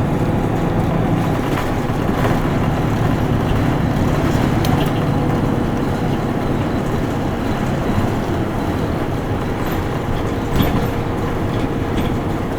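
Isuzu Erga Mio city bus under way, heard from inside the cabin: its diesel engine running steadily with road noise, and a few light clicks and rattles.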